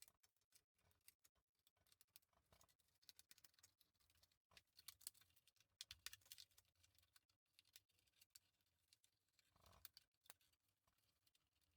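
Faint, scattered snips and clicks of scissors cutting a window out of a milk carton, busiest around the middle.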